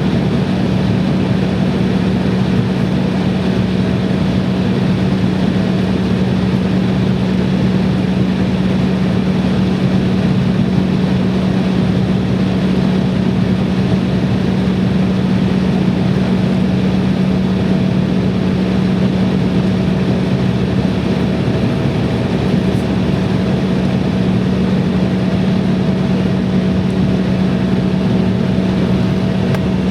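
Steady airliner cabin noise during taxi: the jet engines run at low power with a constant low hum that holds one pitch, and there is no build-up of thrust.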